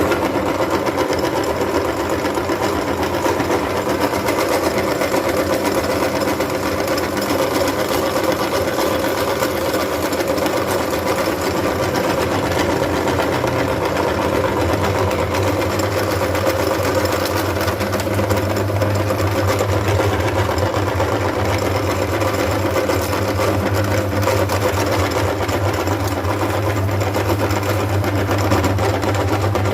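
Electric meat grinder running steadily with a constant motor hum; a deeper hum grows stronger about halfway through.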